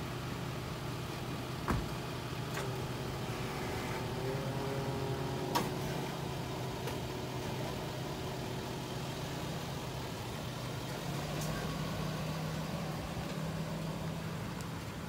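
A vehicle engine idling steadily, with two sharp clicks, about two and six seconds in.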